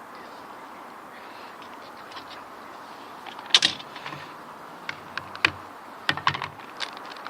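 A string of sharp clinks and knocks from things being handled, starting about halfway through, the loudest one just after the midpoint, over a steady outdoor background hiss.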